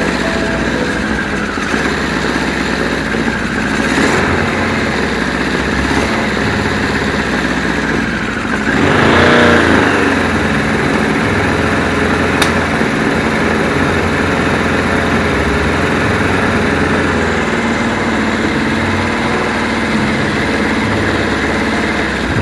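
Kawasaki KZ1000's air-cooled inline-four engine running on its freshly rebuilt carburettors, with one short rev about nine seconds in.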